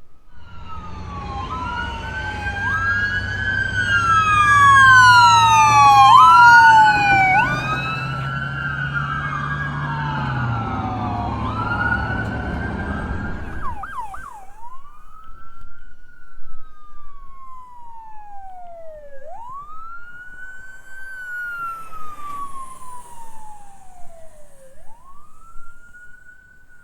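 Several emergency vehicle sirens wailing at once over a low engine drone, growing loudest a few seconds in as the vehicles pass. About halfway the drone and most sirens drop away, a brief fast yelp sounds, and a single siren keeps wailing slowly, fainter.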